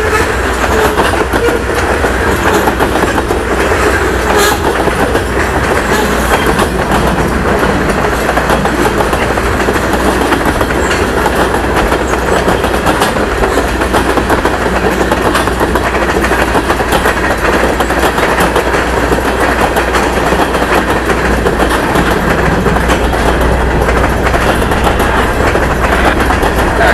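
Freight train cars rolling past close by, a loud, steady rumble of covered hoppers and tank cars on steel wheels, with occasional sharp clacks as the wheels cross rail joints.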